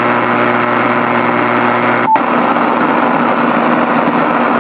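Power-line electrical noise heard through an amateur HF receiver tuned to the 15-meter band: a steady buzzing hiss with hum, strong enough to read S9 on the signal meter. It breaks off for an instant about two seconds in.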